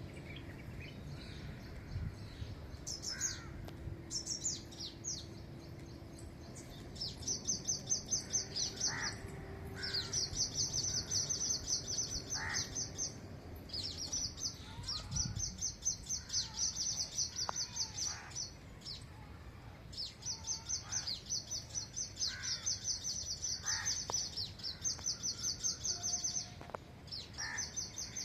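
Small birds chirping: runs of rapid, high, thin repeated notes, several a second, lasting a few seconds each with short pauses between, mixed with occasional lower single calls.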